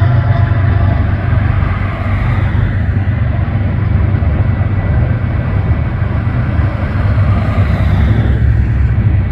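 Train passing: a steady low rumble with a faint thin steady whine above it.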